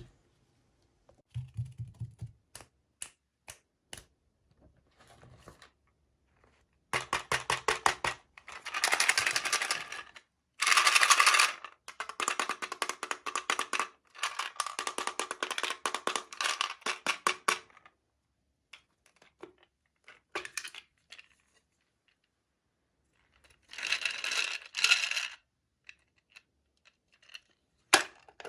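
Small hard plastic toy pieces and packaging being handled: scattered sharp clicks, then long runs of rapid clicking and rattling in the middle, and a shorter burst of rattling near the end.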